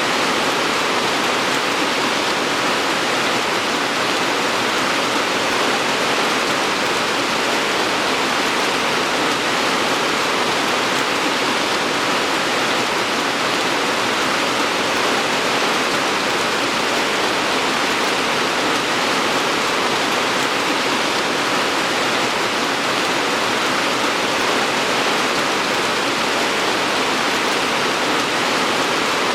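Steady heavy rainfall, a dense even hiss of rain falling that does not change.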